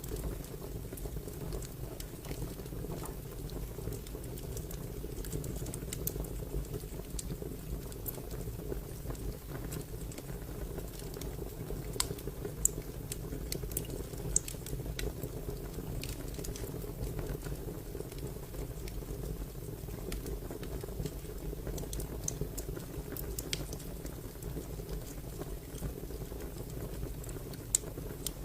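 Fire crackling: a steady low rumble of flame with scattered sharp pops and snaps, a few of them louder, twice near the middle and once near the end.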